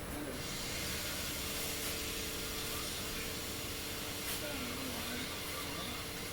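Steady background hiss with faint, even-pitched tones underneath.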